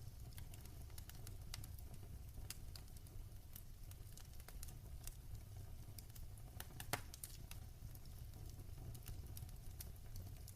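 Fireplace fire crackling faintly, with many scattered small pops and one louder pop about seven seconds in.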